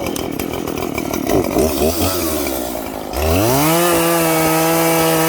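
Chainsaw engine running unevenly at low speed, then revved up about three seconds in to a steady high-pitched whine held at full throttle.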